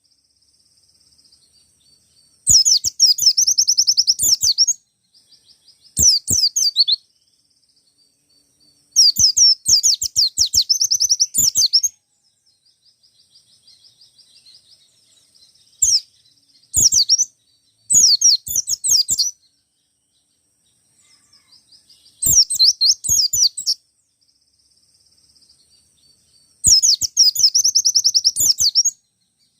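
Wild-caught white-eye (pleci) singing in repeated bursts of rapid, high-pitched chirping notes, each burst lasting one to three seconds, with soft twittering in the pauses between.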